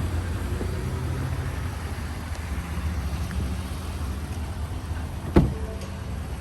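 Steady low rumble of an idling vehicle engine, with a single sharp knock about five seconds in.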